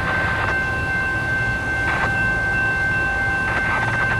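An approaching Metrolink commuter train is heard before it arrives, its low engine drone growing near the end. A steady high-pitched ringing runs over it throughout.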